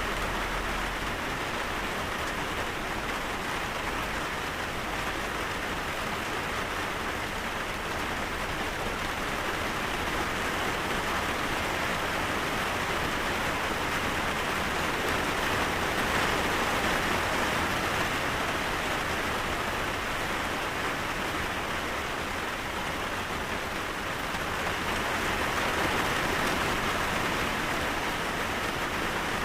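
Steady rain falling, an even hiss of countless drops on surfaces that swells and eases slightly now and then.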